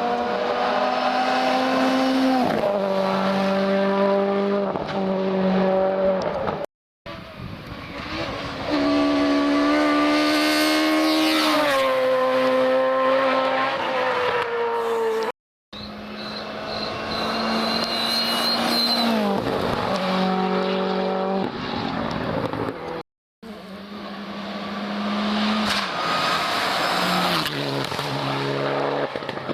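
Rally cars driven hard on a stage, engines at high revs with the pitch stepping up and down through gear changes. The passes come as four short segments, each broken off suddenly.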